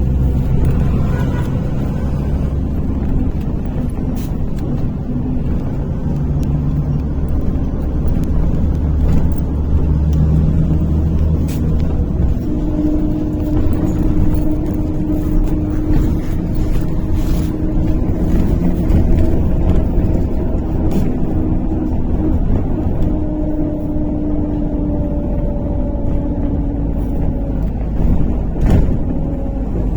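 MAZ-103 city bus under way, heard from inside: a steady engine and road rumble. Partway through, a steady engine tone comes in and holds for a while, and light knocks and rattles from the body come now and then.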